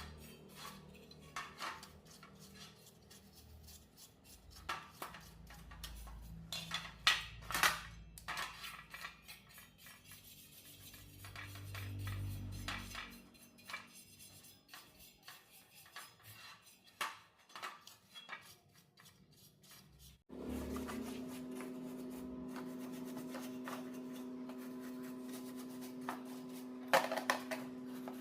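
Small metal tools and parts clinking and tapping in irregular handling. About twenty seconds in, the sound cuts abruptly to a steady hum of several low tones, with a few clicks near the end.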